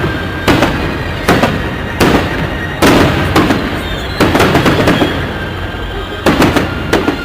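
Fireworks salute: a string of loud, sharp bangs from bursting shells, about one or two a second at uneven spacing, each trailing off in an echo.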